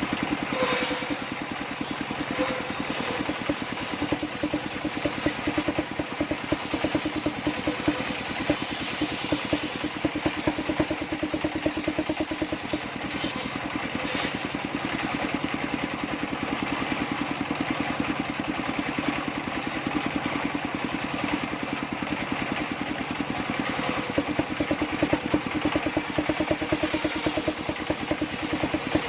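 Sawmill circular saw table running steadily, its drive throbbing in fast, even pulses.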